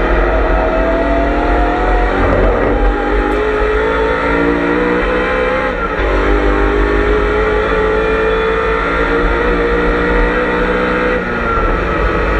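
BMW M3 E92's V8 engine heard from inside the cabin at racing speed, its revs climbing in long pulls with gear changes about two and six seconds in and a lift in revs near the end.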